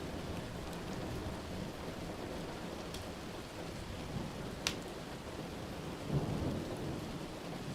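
Steady rain with a low rumble of thunder that swells about six seconds in, and a few sharp pops, clearest at about three and four and a half seconds in.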